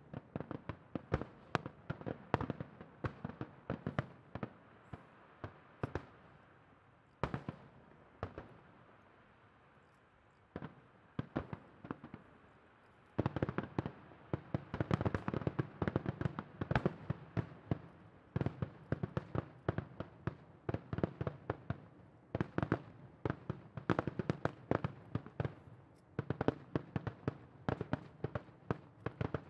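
Aerial fireworks shells bursting in quick succession, one sharp bang after another. The bangs thin out for a few seconds near the middle, then a dense barrage starts abruptly almost halfway through and keeps going.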